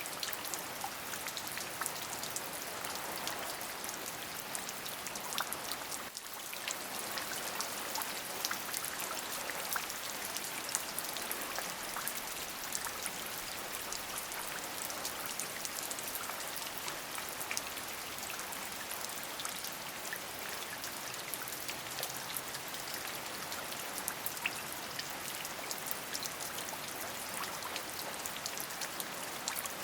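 Steady rain: many separate drop ticks over an even hiss, with a brief dip in level about six seconds in.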